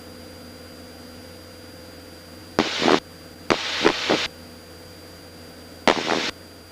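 Cockpit radio and intercom audio feed of a Cessna 172: a steady hiss with a faint hum, broken by three short bursts of noise about two and a half, three and a half and six seconds in.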